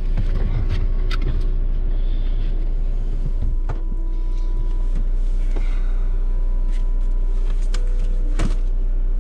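Car engine idling, a steady low rumble heard inside the cabin, with scattered knocks and clicks as the driver gets in, shifts a backpack and handles the seatbelt.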